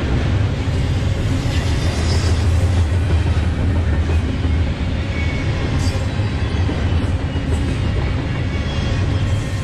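Double-stack intermodal freight train rolling past, the steel wheels of its container well cars running on the rails with a steady, loud low rumble.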